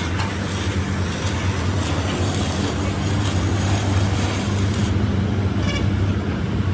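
A motor or engine running steadily with a low hum and a hiss over it. The hiss drops away about five seconds in.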